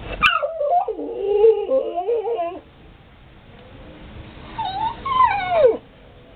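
A pet animal's drawn-out whining calls: a long, wavering cry lasting about two seconds, then after a pause a shorter one that slides sharply down in pitch.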